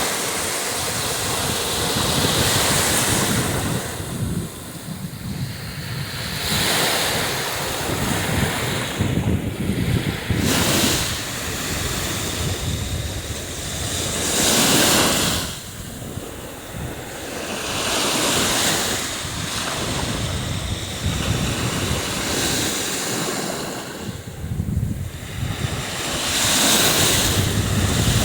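Black Sea surf breaking and washing up the shore, swelling and ebbing every few seconds, with wind buffeting the microphone.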